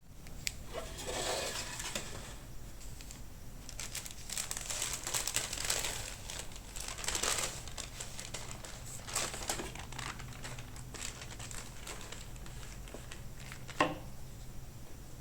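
Crinkly packaging being handled and crumpled, rustling and crackling on and off, with a single sharp tap near the end.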